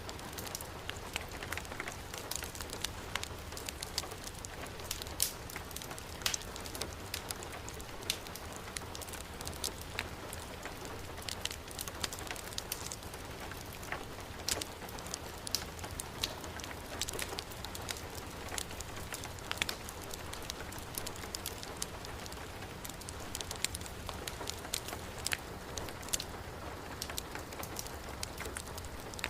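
Steady heavy rain falling on a surface, with a fire crackling through it in sharp, irregular pops.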